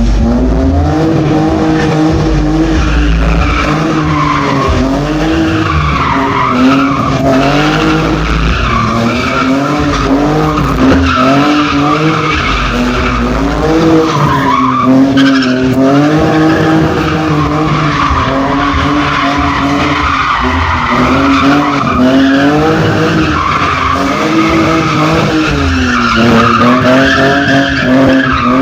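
Car engine revving hard through a drift, its pitch rising and falling again and again, with tyres skidding and squealing.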